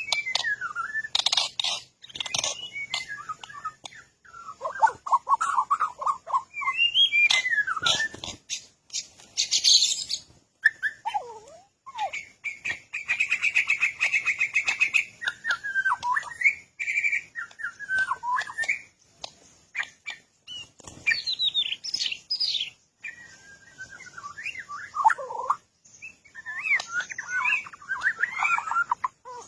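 Birds chirping and whistling in quick, varied phrases that slide up and down in pitch, broken by short pauses, with one longer buzzy trill partway through.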